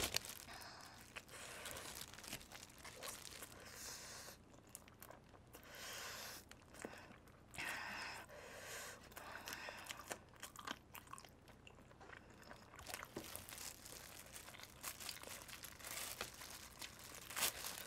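Faint, intermittent chewing and crunching of chicken up close, with small clicks of biting and mouth sounds.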